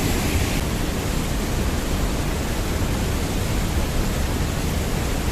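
Steady rushing noise of river water flowing, even and unbroken.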